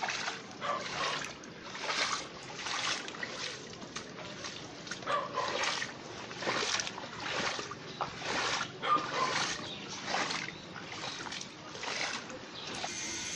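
Footsteps splashing on a wet, puddled street at walking pace, about one and a half steps a second.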